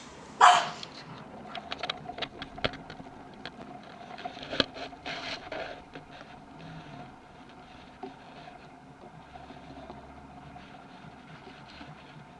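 French bulldog puppy giving one sharp bark about half a second in, followed by scattered light clicks and knocks over a faint steady hum.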